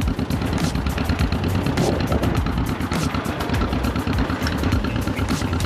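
Tractor engine running steadily under way, a fast low pulsing, with frequent sharp clicks and rattles over it.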